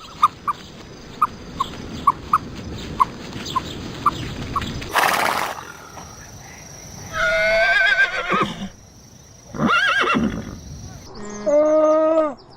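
Horse whinnying: a shaky call with a wavering pitch about seven seconds in, a shorter call near ten seconds and another near the end. About five seconds in there is a short loud burst of noise. Through the first five seconds, short high chirps repeat at irregular intervals.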